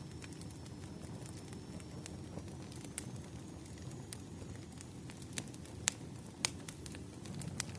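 Campfire burning: a steady low rumble of flames with scattered sharp crackles and pops of wood, the two loudest pops a little past halfway.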